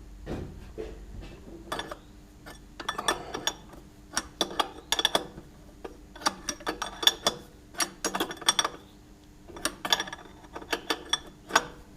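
Spanner clicking and clinking against a small union nut in short, irregular bursts while the choke pipe on the carburettors of a Jaguar 3.8 engine is tightened.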